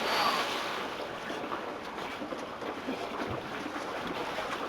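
Lake water splashing and churning right after a person jumps in, loudest in the first second and then settling into a steady wash.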